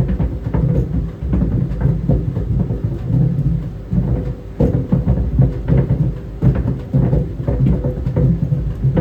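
Tennis balls tumbling in a running clothes dryer: irregular dull thuds and knocks against the drum, several a second, over the steady hum of the dryer.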